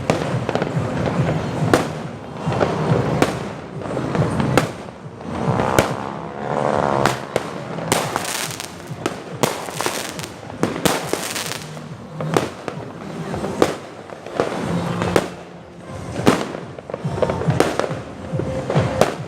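Fireworks going off: many sharp bangs and crackles at an irregular pace, one after another.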